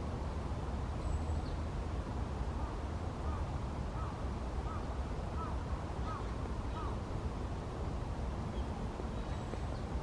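A run of short bird calls, repeated roughly every half second to a second through the middle, over a steady low outdoor rumble; a faint high peep or two sits on top.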